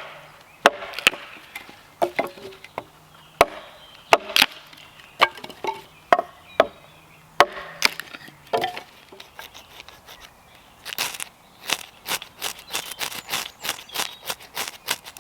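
Dry firewood being split and broken up for kindling. Irregular sharp knocks of wood being struck, then a fast run of cracks, several a second, in the last few seconds.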